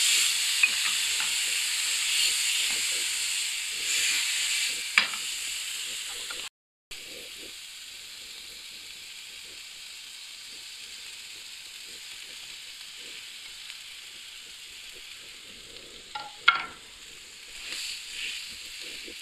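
Onion, green chillies and spices sizzling loudly in hot oil in a non-stick frying pan just after a splash of water, with a spatula stirring. After a cut the sizzle is much quieter and steady as mashed boiled potatoes go into the pan, with a sharp knock near the end.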